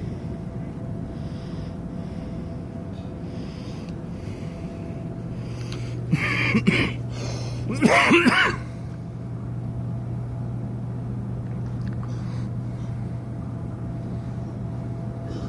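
Steady low hum of a cruise ship's machinery during docking, growing stronger about five seconds in. Two brief loud noises break in, about six and eight seconds in.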